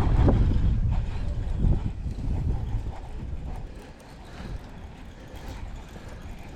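Wind buffeting the microphone as a heavy low rumble, strong at first and easing off after about two to three seconds.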